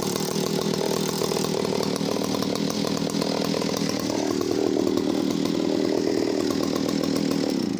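Vintage Echo CS-602VL two-stroke chainsaw running steadily, warm after a choke start; its engine note rises a little about four seconds in and holds there.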